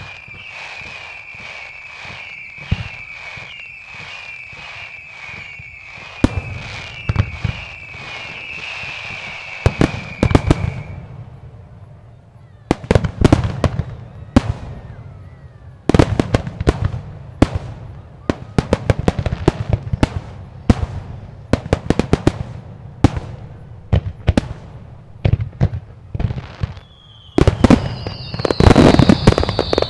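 Fireworks display: a rapid series of whistling shells, one whistle after another, for about ten seconds. Then come sharp bangs of shells bursting, many in quick succession. Near the end there are more whistles and a dense crackling.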